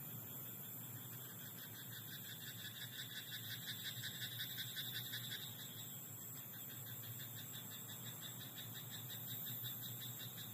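Frogs in a rice paddy calling in rapid pulsed trills, rising to a louder stretch from about two to five and a half seconds in, over a steady high hiss.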